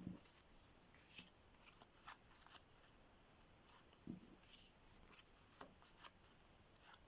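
Faint, irregular soft clicks and rustles of playing cards being laid out on a table.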